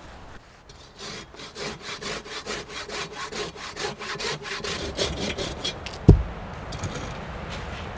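Hand saw cutting through wood in quick, even back-and-forth strokes, about three a second, which stop about six seconds in with a single heavy thud.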